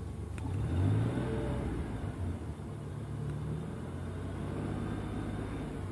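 Car engine, heard from inside the cabin, revved lightly with a short tap on the gas about a second in, its pitch rising, then settling back to a steady idle.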